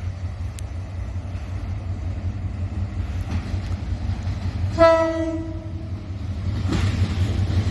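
Train rumbling along the rails, the low rumble growing louder toward the end, with one horn blast of about a second a little past the middle.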